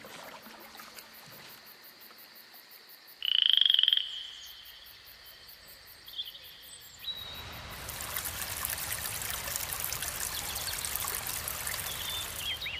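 A frog gives one loud, pulsing croak about three seconds in over faint nature ambience. From about seven seconds a steady rush of flowing water comes in.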